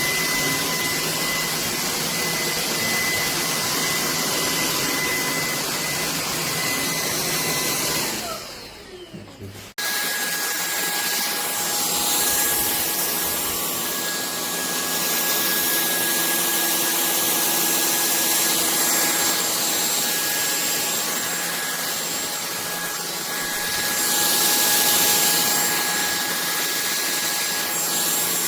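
Cordless stick vacuum cleaner motor running with a steady high whine. It winds down about eight seconds in, then comes back on abruptly about two seconds later at a lower pitch and runs steadily.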